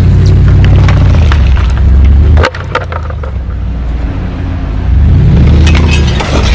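A car driving, with a loud, steady low engine and road rumble. About two and a half seconds in there is a cluster of sharp knocks, the sound drops suddenly, and the loud rumble returns about five seconds in.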